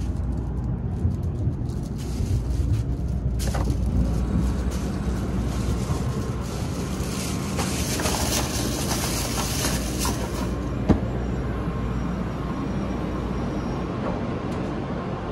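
Steady low running rumble of a Shinkansen train at speed, heard from inside the car. The rush grows louder and hissier for several seconds in the middle. One sharp click comes about eleven seconds in.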